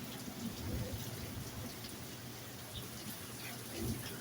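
Steady rain of a severe thunderstorm, with gusty wind rumbling low underneath.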